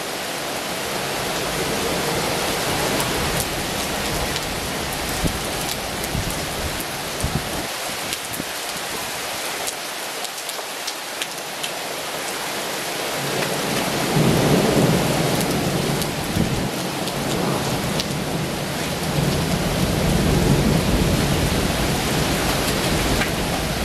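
Heavy rain falling steadily, with single drops ticking sharply close by. A deep low rumble swells about fourteen seconds in and again near the end.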